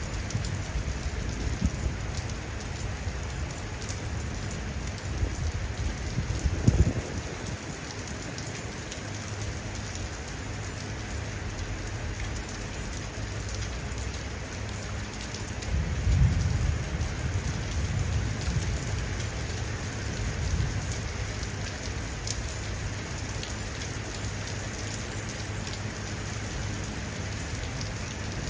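Steady rain falling and pattering on surfaces during a thunderstorm, with a low rumble of thunder swelling for a few seconds past the middle. A short sharp thump stands out about a quarter of the way in.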